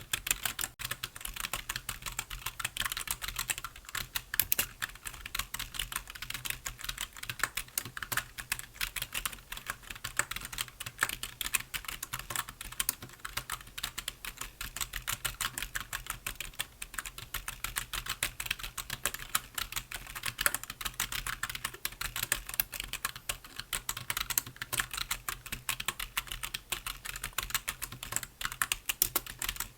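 Computer keyboard being typed on continuously, a fast, dense run of key clicks with no pauses.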